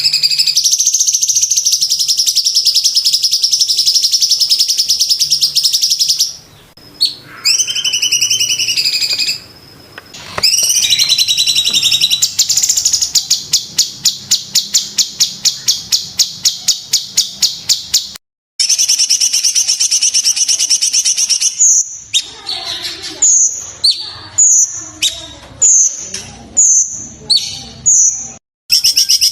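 Cucak cungkok singing loud, high-pitched song. It opens with long rapid trills, then a run of fast repeated notes of about six a second. Near the end come separate short sharp notes, one to two a second, and the song stops and restarts abruptly where the recording is cut.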